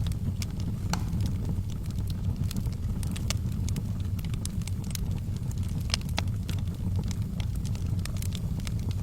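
Wood fire burning in a fireplace: a steady low rumble of the flames with sharp, irregular crackles and pops scattered throughout.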